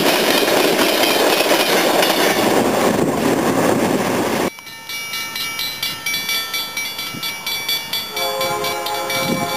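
An Amtrak passenger train passing close at speed, a loud rumble of wheels on rail that cuts off abruptly about four and a half seconds in. A grade-crossing bell then rings rapidly, and about eight seconds in a GE P42DC locomotive's air horn begins to sound a chord.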